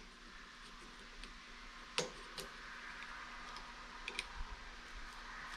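A few small, sharp clicks from a GoPro mount being handled and moved on the handlebar: one about two seconds in, a weaker one just after, and a quick cluster about four seconds in.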